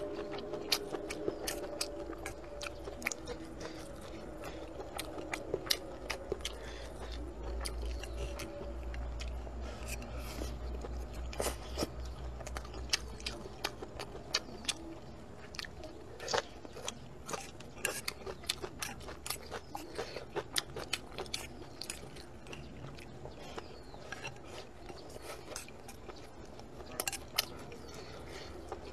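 Close-up eating sounds: a person chewing and biting mouthfuls of rice with braised pork, tofu and peppers, with many irregular sharp clicks and crunches.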